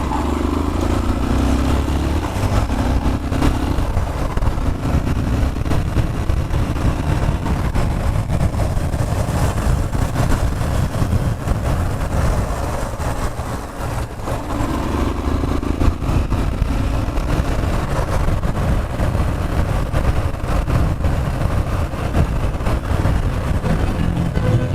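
Yamaha Fazer 150 single-cylinder motorcycle running under way, with a heavy, steady rumble of wind and road noise; the engine note swells and falls back near the start and again about two-thirds of the way through.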